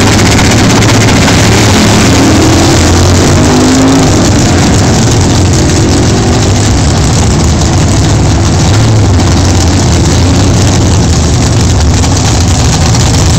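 1972 Gran Torino Sport's 460 cubic-inch big-block Ford V8 at wide-open throttle, launching from the drag-strip start and accelerating down the track. It is loud and constant, with the pitch rising a few seconds in.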